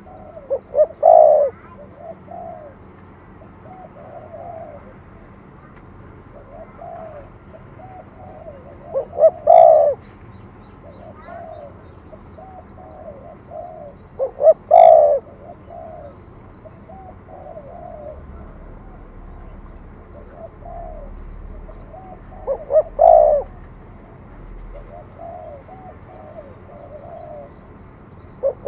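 Spotted dove cooing in the 'thổ thúc gù' call type: four loud coo phrases several seconds apart, with fainter coos between them.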